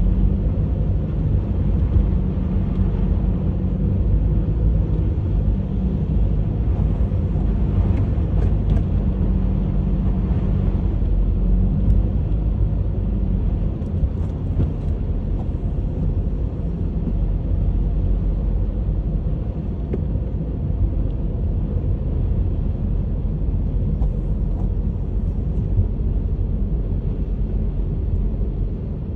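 A Honda HR-V driving through snow: the steady low rumble of its engine and tyre noise on the snow-covered road.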